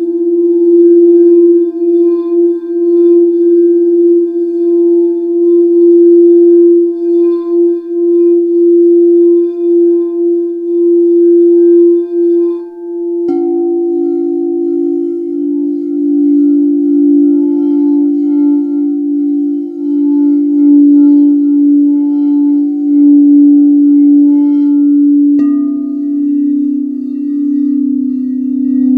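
Singing bowls ringing with a sustained, wavering hum. A lower-pitched bowl is struck about 13 seconds in, and another lower one about 25 seconds in.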